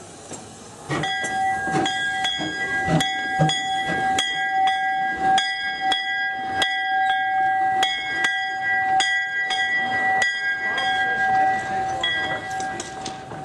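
A bell ringing on the railway, struck steadily about one and a half times a second, so that it rings on without a break from about a second in until near the end.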